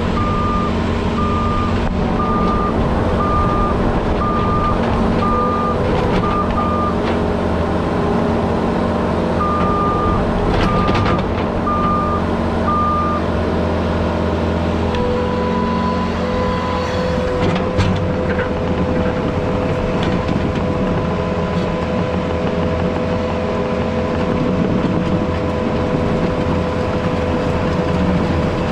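Diesel earthmoving machine's engine running steadily while its backup alarm beeps about once a second in two spells, the machine reversing. About halfway through the beeping has stopped and the engine note changes, then holds steady.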